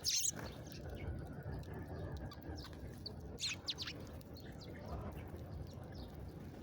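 Small birds chirping: many short, high chirps and quick falling notes scattered irregularly, the loudest one right at the start, over a steady low background noise.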